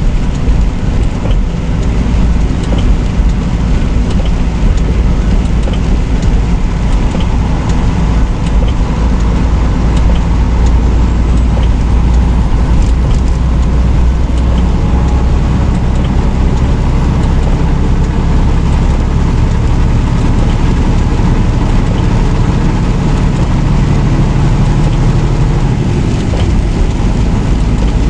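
Semi truck driving on the road: a steady low rumble of engine and tyre noise that goes on without change.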